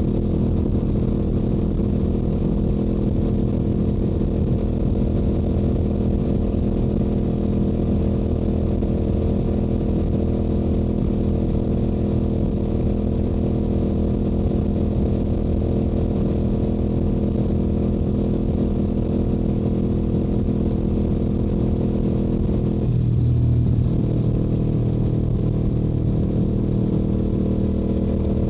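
Stock exhaust of a Yamaha YZF-R7's 689 cc parallel-twin engine running steadily at highway cruising speed. Roughly three-quarters of the way through, the engine note dips and then settles slightly lower.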